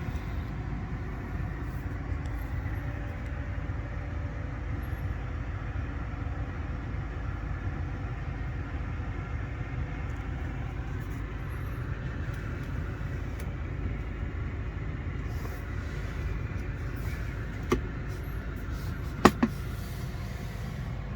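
Steady low vehicle rumble with faint steady tones. Near the end there is a sharp click, then two louder clicks close together.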